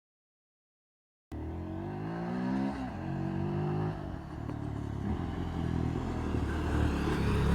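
Yezdi Scrambler's single-cylinder engine revving as the motorcycle accelerates, coming in after about a second of silence. Its pitch climbs twice in quick steps, then it pulls on steadily, slowly getting louder.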